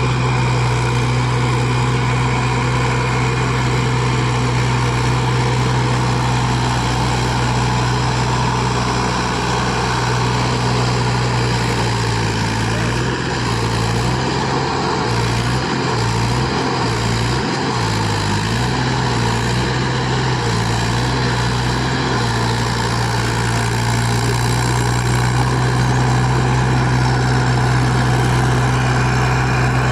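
Mahindra tractor's diesel engine running with a steady, loud low hum; in the middle stretch its note wavers up and down for several seconds before settling steady again.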